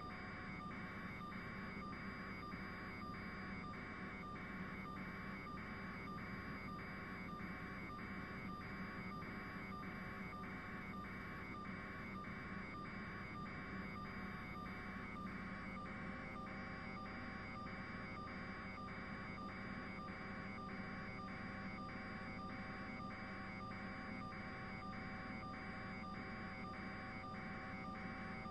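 Regular pulsing electronic beep, about two pulses a second, running evenly over a steady low hum.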